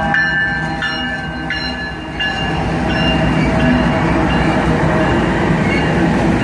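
Union Pacific diesel freight locomotives rumble past at close range, followed by double-stack container cars. A bell dings about one and a half times a second and fades away over the first few seconds.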